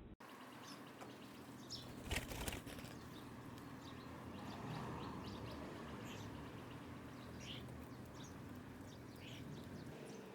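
Small birds at a feeder chirping now and then over outdoor background noise, with a short loud rustling burst about two seconds in.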